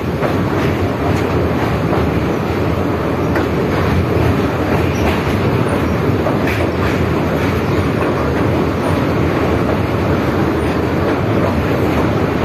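A train running over a railway bridge, heard from aboard: a loud, steady rumble of wheels on the rails with faint clicks now and then.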